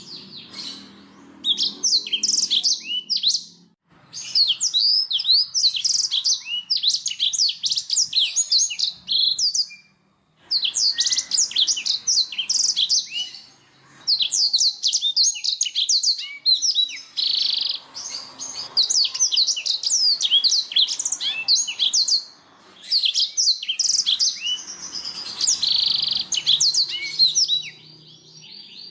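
Canary singing: long runs of rapid, high chirps and trills in phrases a few seconds long, separated by short pauses.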